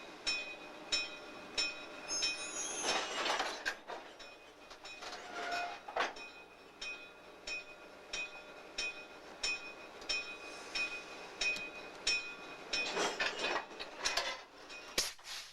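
Rail cars being switched by a locomotive, with a regular sharp ringing tick a little under twice a second and two louder rushes of noise, one early and one near the end.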